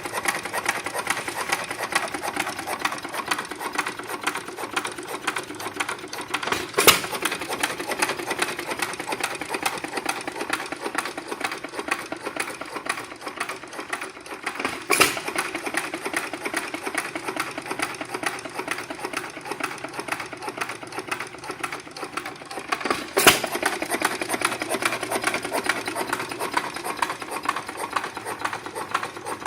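Foos Jr hit-and-miss gas engine running, a fast steady mechanical clatter broken by a sharp bang about every eight seconds, four times, as it fires.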